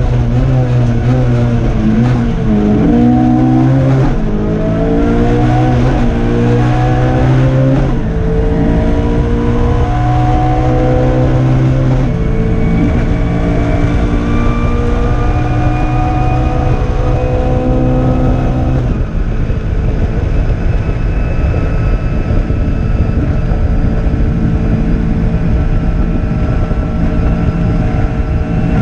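Nissan Micra kit car's racing engine at full effort, heard from inside the cabin, revs climbing and dropping back again and again as it goes up through the gears. About two-thirds of the way through, the engine note grows rougher and less clear.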